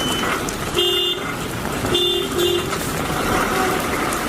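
Vehicle horn honking: one short honk about a second in, then two quick honks in a row about two seconds in, over a steady rushing background noise.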